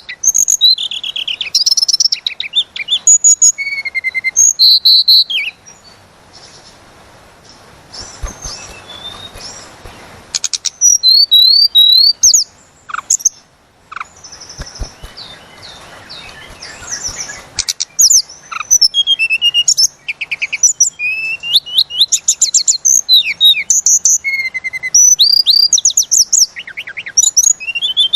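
Tledekan gunung songbird singing long runs of rapid, high, sliding whistled notes. The phrases come in loud spells with quieter gaps of a few seconds between them, about a quarter of the way in and again about halfway through.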